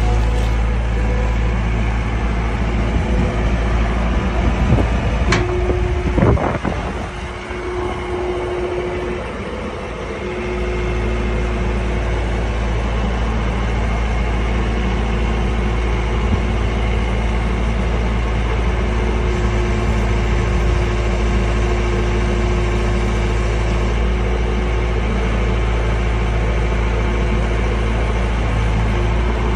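John Deere 320 skid steer loader's diesel engine running steadily. Two sharp knocks come about five and six seconds in, and the low hum dips briefly after them.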